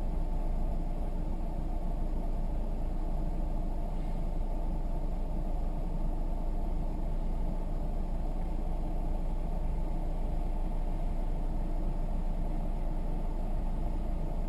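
Steady low rumble of engine and road noise from a moving car, with no impacts. It cuts off suddenly at the end.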